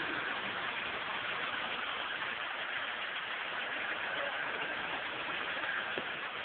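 Toyota Supra's engine running steadily at low revs as the car rolls slowly along, mixed with road and wind noise into an even, hiss-like sound.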